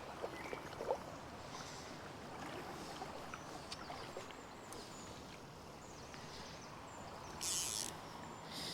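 River water running steadily, with scattered small clicks and two short hissing swishes near the end.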